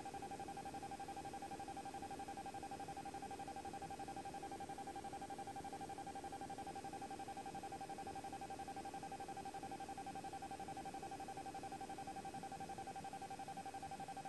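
Faint steady electrical tone on the aircraft's radio and intercom audio feed between transmissions, a single whine with a fast, even flutter.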